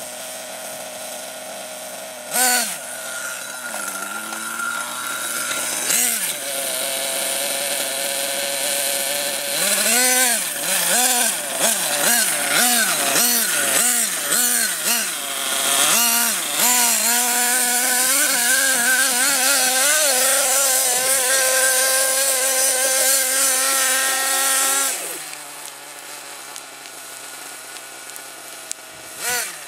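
Small two-stroke nitro engine of an RC monster truck running: it idles, gets a run of quick throttle blips that rise and fall, then is held at high revs for several seconds before dropping back to idle. A few sharp knocks come through, once early and once near the end.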